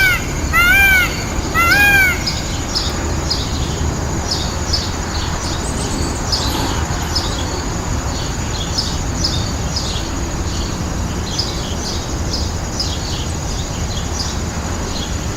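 Three loud, harsh bird calls about a second apart in the first two seconds, then many small birds chirping in quick, faint, high notes over a steady low background noise.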